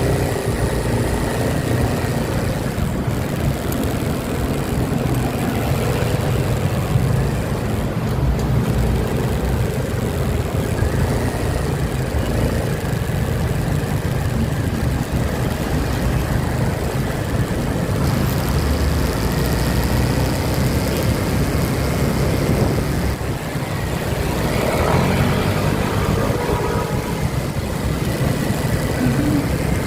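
Motorcycle engine running steadily while riding on a highway, with a continuous rush of noise over it.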